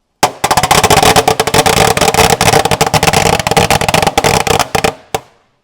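A Klasek 200-shot firecracker carpet going off: a rapid, unbroken string of loud bangs for about five seconds, ending with one last separate bang.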